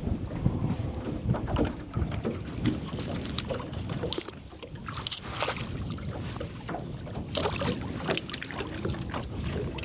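Wind buffeting the microphone in a low rumble, with scattered knocks and clatter on an aluminium fishing boat as it is tied off to a branch, and a few brief gusts of hiss.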